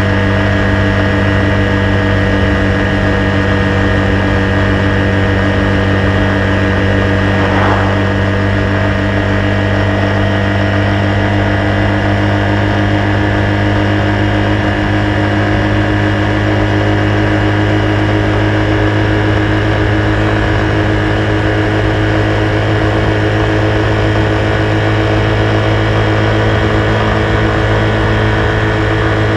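Honda Super Cub's single-cylinder four-stroke engine running steadily under way, its pitch holding nearly constant as the bike cruises.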